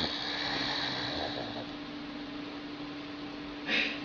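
A sleeping dog breathing quietly, with faint snores and a short breathy snort near the end, over a steady electrical hum and hiss.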